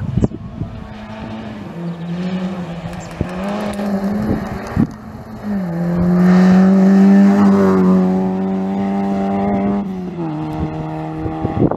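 Rally car's engine pulling hard up the road and past, its pitch dropping at each of three gear changes, about 2, 5½ and 10 seconds in. It is loudest in the middle, as the car goes by close.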